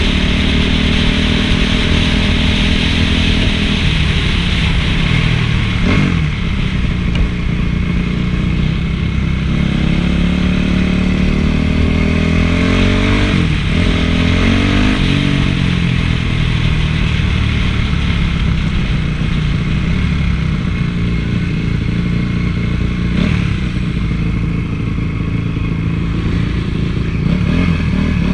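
Honda CRF450 motocross bike's single-cylinder four-stroke engine running hard while ridden. The revs climb and drop back twice, about five seconds in and again near the middle, as it is shifted through the gears.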